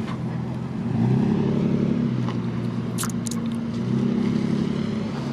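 Road traffic: motor vehicles driving past with a steady engine hum that swells twice, about a second in and again around four seconds in.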